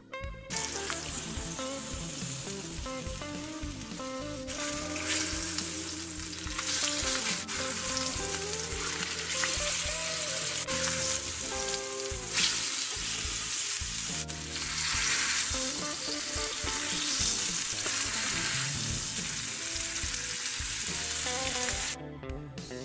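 Skin-on salmon fillets frying in hot oil in a cast iron skillet, a steady sizzle that gets louder about four seconds in and stops abruptly near the end.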